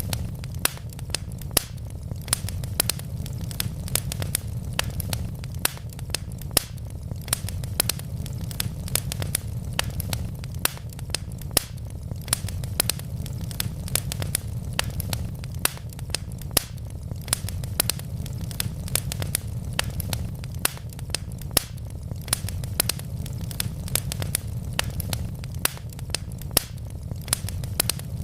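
Wood fire burning in a fireplace: a steady low rumble of the flames with dense, irregular sharp crackles and pops from the logs, several a second.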